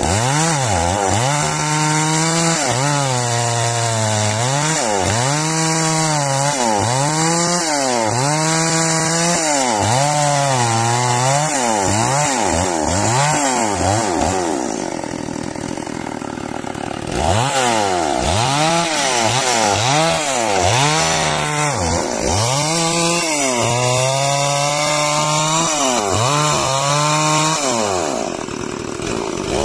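Chainsaw cutting timber into beams at full throttle. The engine note sags under load and recovers about once a second as the chain is worked through the cut, easing off briefly about halfway through and again near the end.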